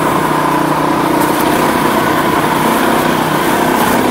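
Husqvarna TE510 single-cylinder four-stroke enduro motorcycle engine running at a steady speed as it rides along a rough farm track, heard through an iPhone headset microphone.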